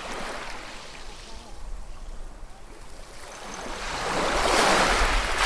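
Ocean waves breaking on a shore: a small wash at the start, then a bigger wave building up and crashing near the end.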